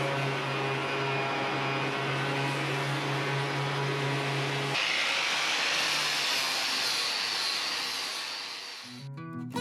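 Electric power tool running during sanding of old oak beams: a steady motor hum at first, then from about five seconds in a hissier, higher sound. Guitar music begins near the end.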